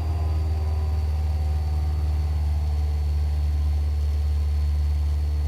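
Cessna 172's piston engine and propeller droning steadily in flight, heard from inside the cabin, with a faint steady high-pitched whine above the drone.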